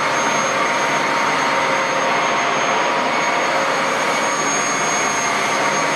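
Hoover Dual Power Pro carpet washer's motor switching on and running steadily in rinse mode, a loud even rush with a thin high whine over it.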